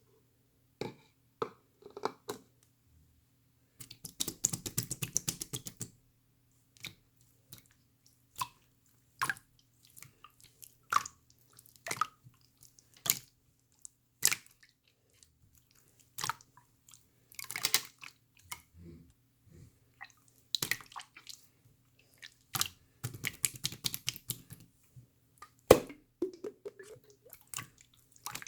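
Slime being squeezed and pressed by hand, giving sharp wet pops and clicks every second or two. Twice, about four seconds in and again near the end, it breaks into a couple of seconds of dense crackling squelch.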